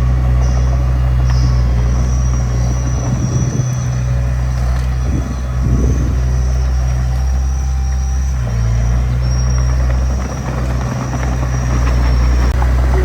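Diesel engine of a small D20P crawler bulldozer running steadily under load, with a thin high-pitched whine over it for most of the time.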